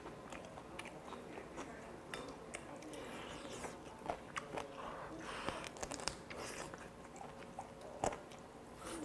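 Close-miked chewing and biting as a man eats boiled chicken off the bone, with scattered wet mouth clicks and a sharp click about eight seconds in.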